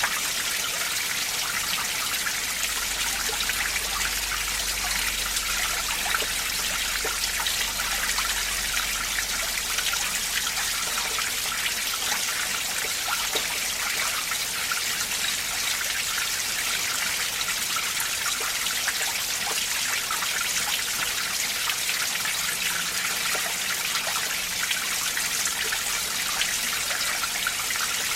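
Winter mountain stream flowing and trickling over rocks among ice, a steady rushing water sound. A faint low rumble sits under it for several seconds in the first third.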